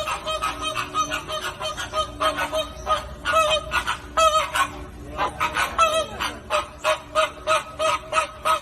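A flock of flamingos honking: a rapid, unbroken run of nasal calls, several a second, from many birds at once.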